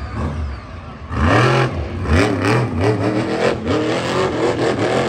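Monster truck engine revving hard, its pitch swinging up and down over and over as the throttle is worked. It dips briefly, then surges loudly about a second in.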